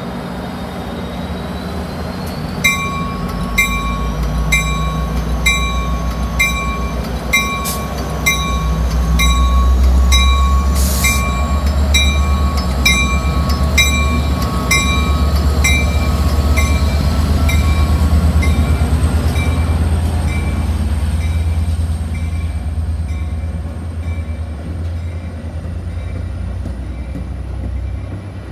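Metra commuter train's diesel locomotive and cars rumbling, building a few seconds in and easing off after about twenty seconds, as the train pulls out of the station. A bell rings steadily, about three strokes every two seconds, through most of it.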